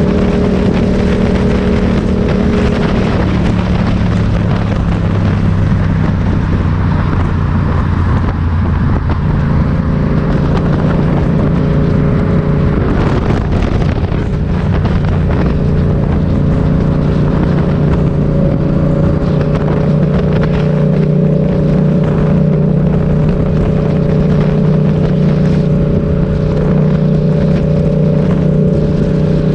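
Motorcycle engine running under way. Its note drops about three seconds in, climbs again about nine seconds in, then holds steady.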